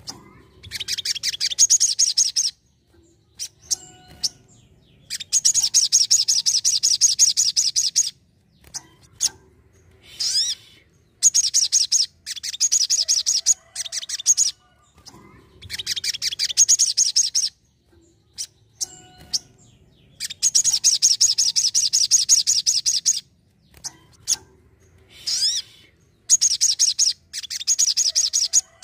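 Sogon sunbird singing in full song: repeated phrases of rapid, high trilled notes, each a couple of seconds long, with short pauses and a few single chips between phrases.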